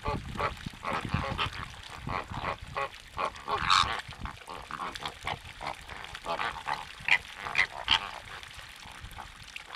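A flock of wetland birds calling: a busy chatter of short, overlapping goose-like honks and grunts, with a louder burst a little under four seconds in.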